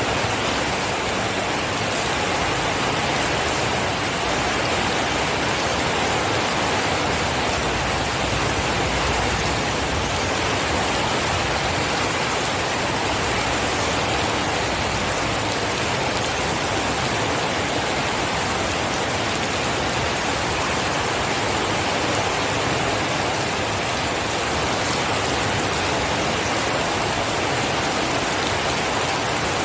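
Steady heavy rain falling, an even, dense hiss with no breaks.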